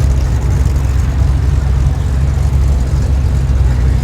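A car's engine running with a steady low note as it drives slowly past.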